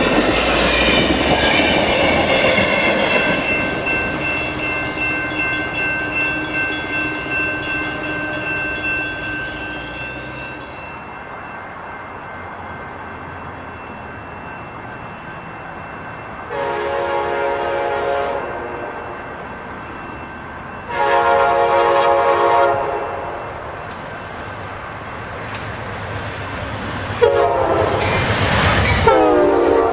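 Passenger train rolling past with wheel clatter that fades away. Then the five-chime Nathan K5LA horn on an Amtrak GE P42DC locomotive sounds two blasts of about two seconds each, and a third, louder blast near the end drops in pitch as the locomotive passes.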